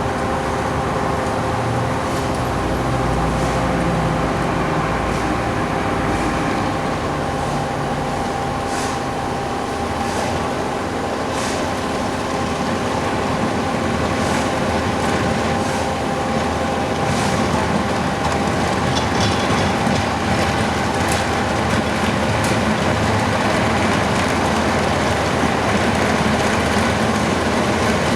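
Bobcat skid steer loaders at work milling and sweeping pavement: a steady diesel engine drone with a held whine, over a rough grinding and clattering of the attachment. Scattered sharp clicks and knocks run through it.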